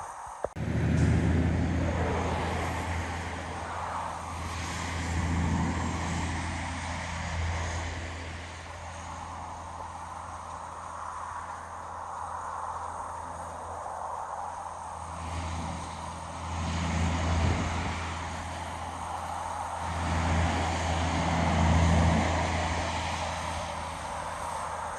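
A large engine running steadily with a low, even hum that swells and eases several times, starting abruptly after a click about half a second in.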